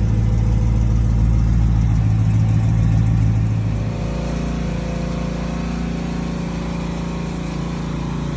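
Dodge Challenger Scat Pack's 392 HEMI V8 idling steadily; about four seconds in it settles to a quieter, lower run.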